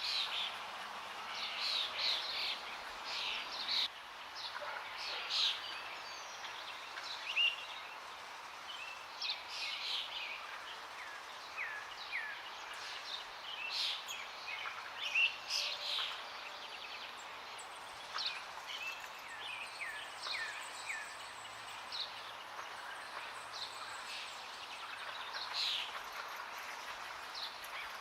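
Several songbirds chirping and calling in quick, irregular bursts, including a run of short falling notes midway, over a steady background rush of water.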